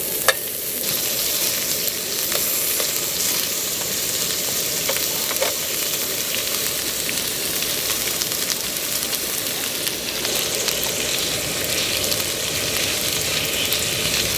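Pork belly and pork jowl sizzling and spitting fat as they cook, a steady crackling hiss, with a sharp click near the start.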